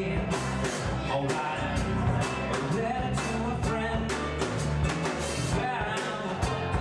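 Live band playing an acoustic rock song: a strummed acoustic string instrument over electric bass and a drum kit keeping a steady beat.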